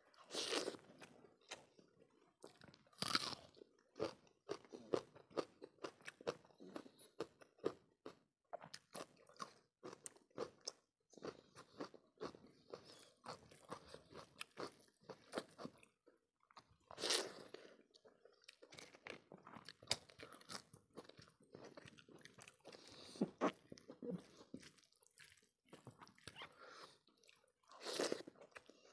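Close-miked chewing of mouthfuls of rice eaten by hand, with wet mouth sounds and crunching throughout; louder crunches come four times.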